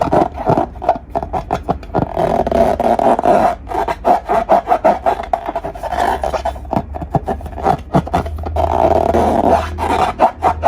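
Slime being squeezed and worked by hand: a dense run of small wet clicks and squishes with a rubbing, scraping texture.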